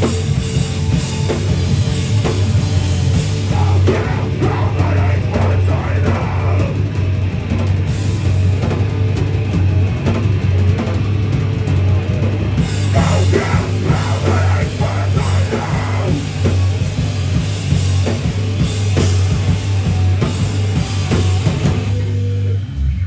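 Heavy band playing live and loud: distorted guitars, a heavy low bass and pounding drum kit. The song stops abruptly near the end.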